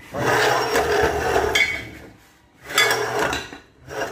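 Pneumatic hole-punching press for aluminium window profiles cycling: a burst of rushing air with metal knocks lasting about a second and a half, then a shorter burst nearly three seconds in and a brief one near the end.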